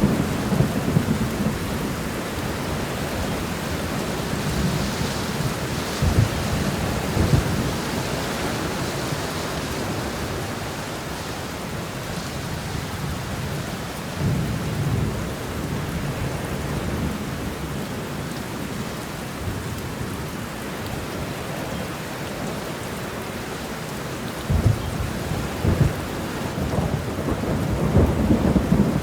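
Steady rain shower hissing evenly, with low rumbles swelling and fading several times: near the start, about a quarter of the way in, about halfway, and again near the end.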